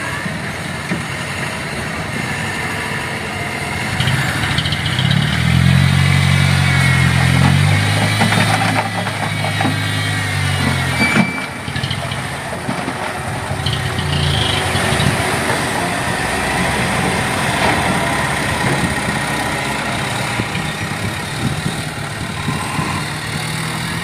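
Heavily loaded dump truck's diesel engine running, pulling harder with a louder, deeper engine note from about four seconds in, easing off abruptly about eleven seconds in and then running steadily.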